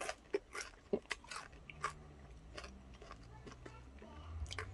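Close-up chewing of a hornet fried in olive oil, a run of short crisp crunches that come thick in the first two seconds and then thin out.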